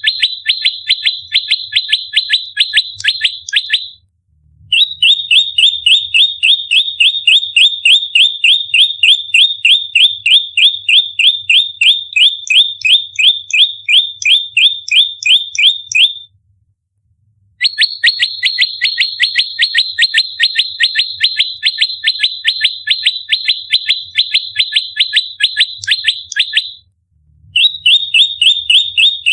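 Prenjak lumut giving its rapid fighting call: long volleys of sharp, high chip notes, each dropping in pitch, at about eight a second. The volleys run several seconds at a time, with brief pauses between them.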